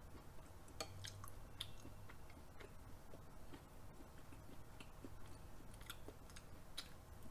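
Faint, close-miked chewing of raw beef yukhoe: soft, wet mouth sounds with scattered small clicks.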